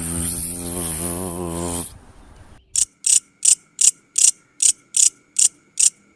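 An animal call with a deep, buzzy, harmonic voice lasts about two seconds and wavers near its end. After a short gap comes a run of sharp, evenly spaced chirps, about two or three a second.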